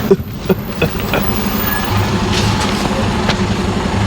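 Lorry's diesel engine running steadily, heard from inside the cab, with a few short clicks and knocks in the first second.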